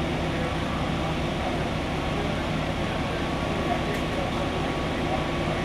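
A vehicle engine running steadily with a constant low hum and a faint higher whine, with voices faint in the background.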